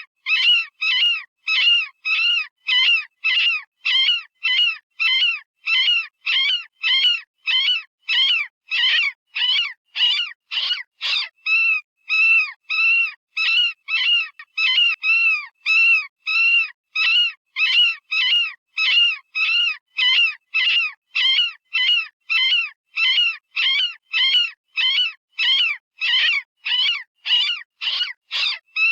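Synthesized rabbit distress call, a predator-hunting caller sound made by animal sound-generating software: short, high-pitched squealing cries repeated about twice a second, each arching up and then down in pitch.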